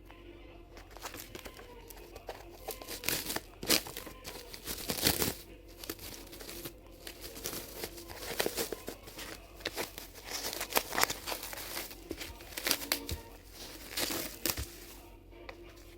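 Packaging being crinkled, crumpled and torn by hand in irregular handfuls, starting about a second in and stopping near the end.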